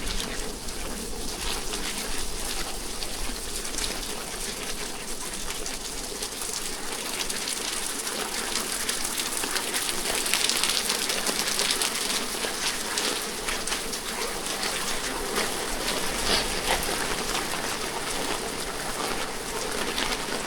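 Steady rain falling, with many individual drops ticking and pattering on hard surfaces; it grows a little heavier about halfway through.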